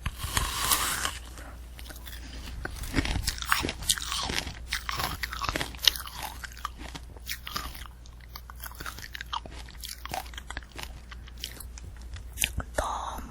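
Close-miked eating of a candy apple: the hard sugar shell cracking and crunching between the teeth, with wet chewing of the apple. Irregular crunches throughout, loudest in the first second and again near the end.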